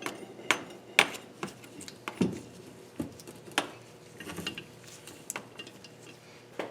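Small steel parts and hand tools clinking and clicking in a string of sharp, irregular strikes while valve keepers are refitted on a 16-valve cylinder head.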